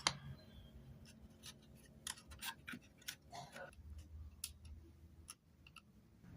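Irregular small clicks and snips from hand tools working on a small wooden ship model, over a faint steady hum.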